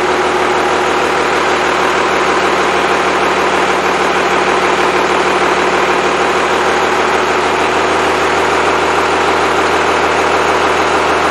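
Freshly rebuilt Cummins 5.9L 12-valve inline-six diesel engine idling steadily.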